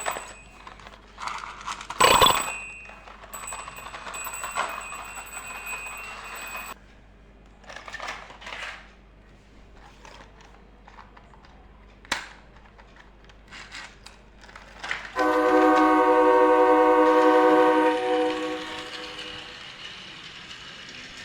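Scattered knocks and clicks, with a sharp loud knock about two seconds in, then a loud horn sounds steadily for about three seconds and trails off.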